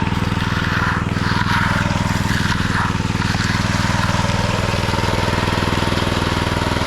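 An engine running steadily at a constant speed, with an even, pulsing note.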